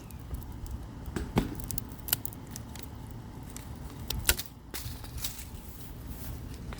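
Ethiopian kale stalks being cut: scattered sharp snips and cracks with light rustling, the loudest about a second and a half in and again just after four seconds.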